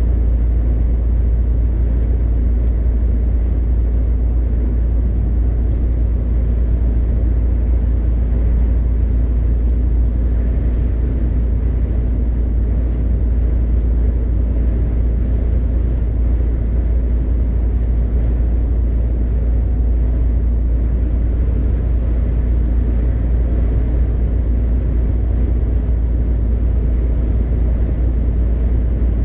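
A MAN TGX 520 truck's straight-six diesel engine and road noise: a steady, deep drone while driving, with no change in engine speed.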